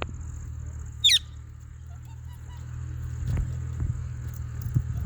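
A parrot gives one short, loud, high squawk about a second in, over a steady low hum.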